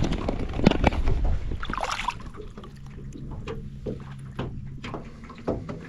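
Knocks and handling sounds on a small fishing boat, then a low steady motor hum from about two and a half seconds in.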